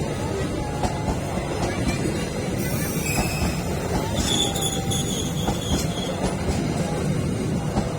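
A passenger train rolling through the station, its wheels on the rails making a steady rumble. Thin, high wheel squeals come in about halfway through.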